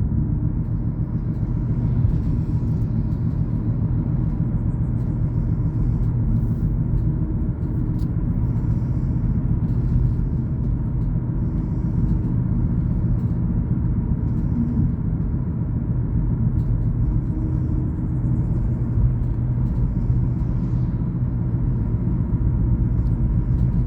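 Car driving at a steady speed: a steady low rumble of road and engine noise.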